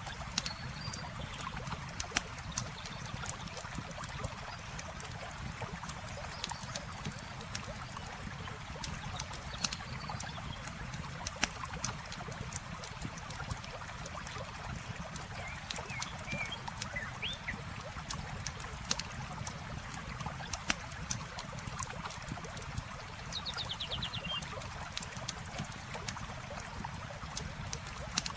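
Campfire crackling with many sharp pops over steadily flowing water, with a few brief bird chirps and a short trill in the second half.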